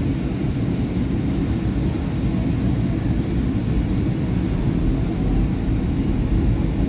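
SEPTA Market-Frankford Line train's steady rumble heard from inside the car, with a faint rising motor whine setting in about five seconds in as the train pulls away.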